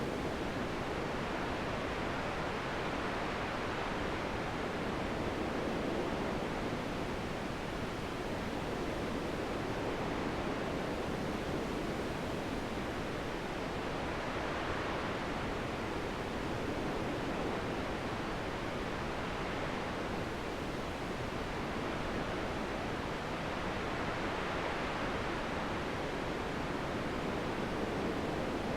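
Wind blowing steadily, swelling and easing every several seconds.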